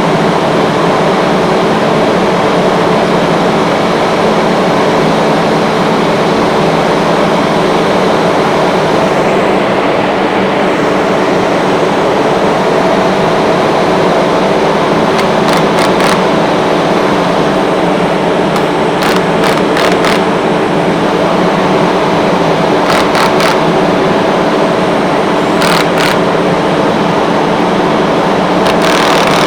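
Industrial rotary screw air compressor running, a loud steady hum with several held tones. A few short clicks or taps come in pairs over the second half.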